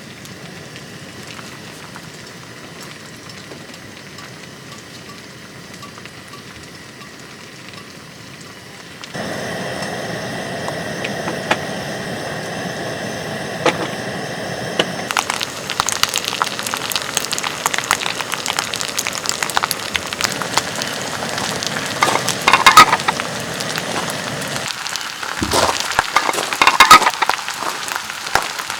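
Campfire crackling, with a dense run of small pops and sizzles. It grows louder at about nine seconds and busier again at fifteen, with a few sharper cracks near the end.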